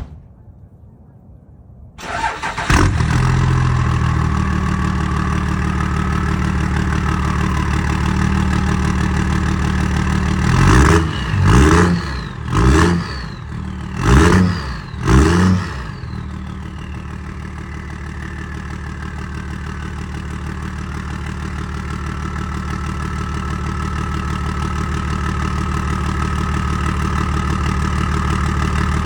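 Cummins diesel engine cold-started: it catches about two seconds in and settles into a steady idle with a thin whistle above it. Five quick revs come around the middle, then it drops back to idle.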